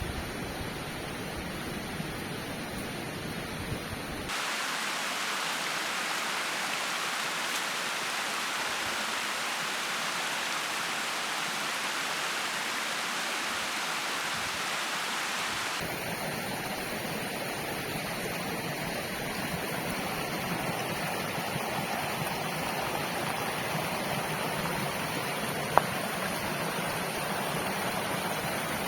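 River water flowing and rushing steadily. Its tone changes abruptly twice, hissier and brighter through the middle stretch. One sharp click comes near the end.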